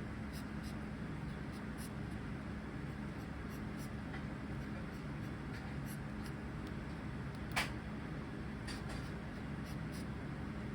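Zebra finch cage: scattered faint ticks and light scratching from the birds, with one sharper click about seven and a half seconds in, over a steady low hum.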